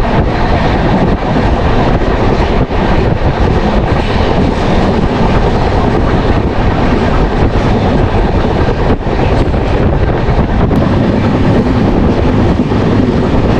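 Passenger train running at speed, heard from on board: a loud, steady rumble of wheels on rails mixed with rushing air.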